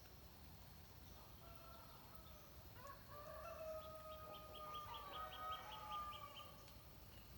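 Faint, distant rooster crowing: a long, drawn-out crow in the middle, with a quick run of high, repeated chirps laid over it near its end.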